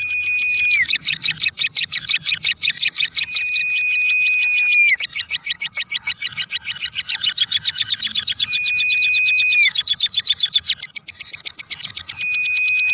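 Lovebird 'ngekek': a long, unbroken run of rapid, high chattering chirps. A held whistled note that dips in pitch at its end cuts in over it several times.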